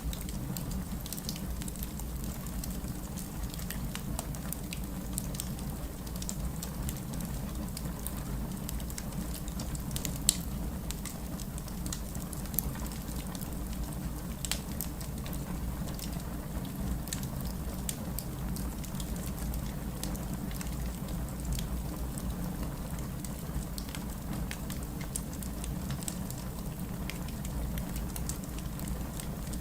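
Steady rain over a low, even rumble, mixed with the sparse crackles and pops of a wood fire in a fireplace. A single sharp pop about ten seconds in is the loudest moment.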